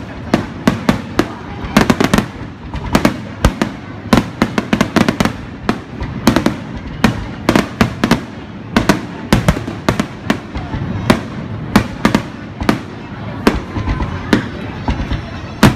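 Fireworks and firecrackers going off in rapid, irregular succession, several sharp bangs a second with no break, some in quick clusters.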